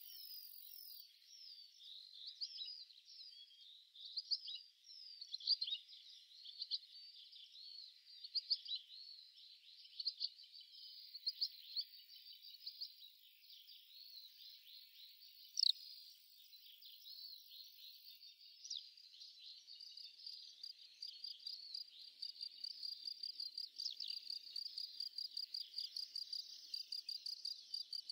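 High chirping calls of small wild creatures: many quick, sweeping chirps. About two-thirds of the way through they give way to a fast, even pulsing trill.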